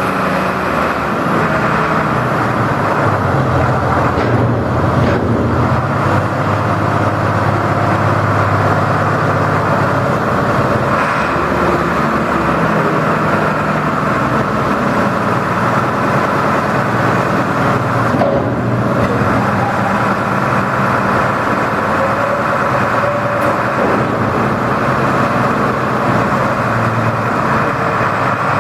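New Holland 8260 tractor's 6-litre diesel engine running steadily.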